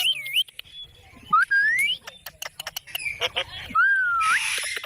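Pet parrots calling: whistled calls that slide up in pitch, many short sharp clicks, and a harsh squawk near the end.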